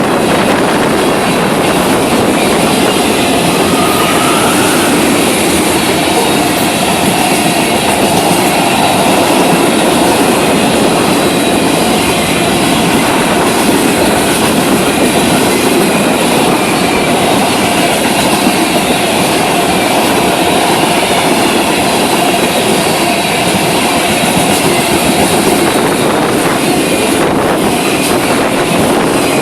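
Florida East Coast Railway freight cars rolling past at speed: a loud, steady rumble and clatter of steel wheels on the rails.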